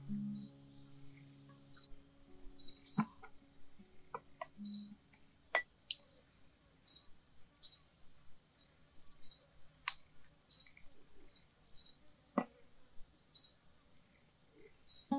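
A small bird chirping, short high chirps repeated over and over, a little more than once a second. A few sharp clicks sound among them, about a third of the way in, near the middle and towards the end.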